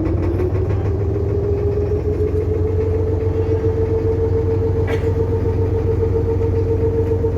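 Small boat's engine running steadily, its pitch climbing over the first second or two and then holding even.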